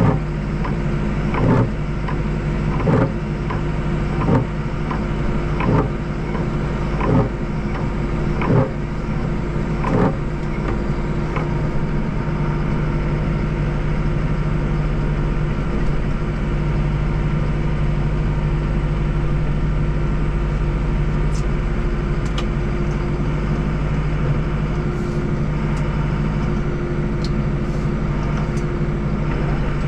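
A Deutz-Fahr tractor's diesel engine running steadily under load while snowblowing. For about the first ten seconds a sharp knock comes about every second and a half.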